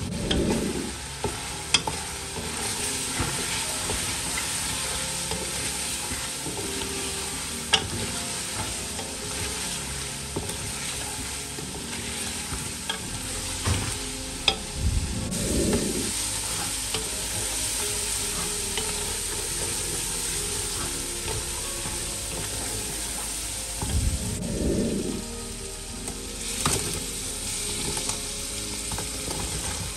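Chicken curry masala sizzling as it fries in an aluminium pressure cooker pot, stirred with a wooden spoon. The sizzle is a steady hiss, with a few sharp knocks along the way.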